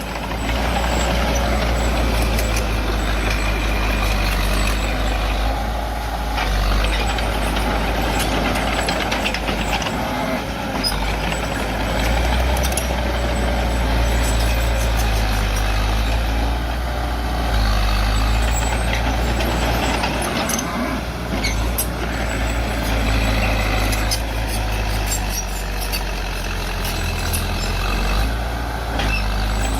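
Bulldozer's diesel engine running hard and steadily as it pushes earth, its note shifting up and down every few seconds as the load changes.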